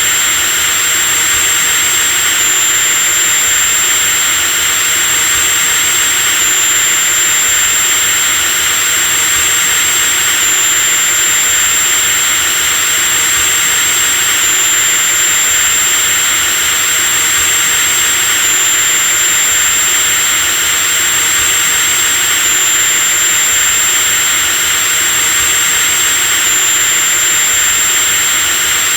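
Electric drill running continuously at a constant speed: a steady high whine over an even rushing motor noise.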